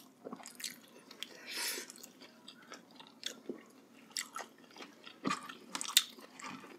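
Chewing and biting on braised pork leg close to the microphone: many short mouth clicks and crunches, a brief breathy hiss about a second and a half in, and a sharper, louder click about six seconds in.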